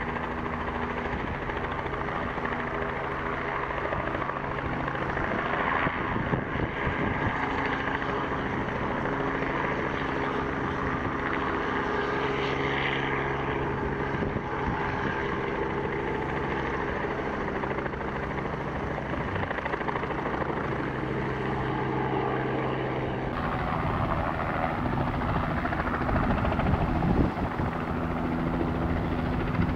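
Helicopter running close by with its rotor turning, a steady engine and rotor sound with fast, even pulsing, as it lifts for departure. The sound changes abruptly about three-quarters of the way through.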